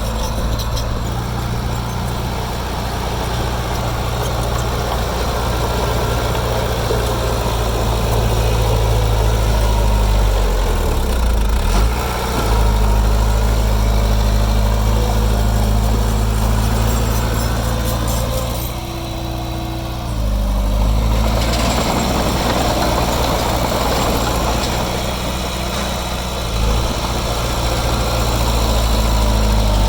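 Heavy construction machine's diesel engine running steadily, its pitch shifting briefly about a third of the way in and dropping back for a couple of seconds about two-thirds through before picking up again.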